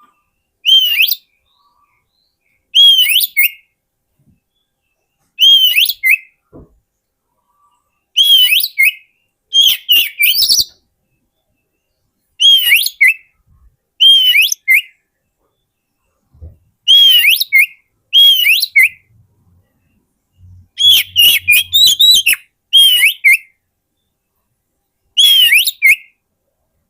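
Oriental magpie-robin (kacer) calling in short whistled phrases, each built on a rising-then-falling note, repeated about every two seconds with silence between; a lure call for wild magpie-robins.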